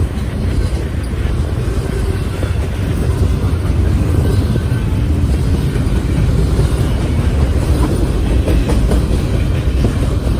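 Norfolk Southern freight train rolling past at trackside: a steady, loud low rumble of railcars and wheels on the rails, with faint clicks mixed in.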